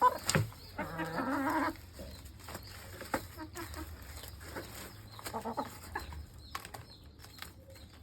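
Laying hens clucking while feeding, with one louder drawn-out call about a second in, then quieter scattered clucks and small clicks.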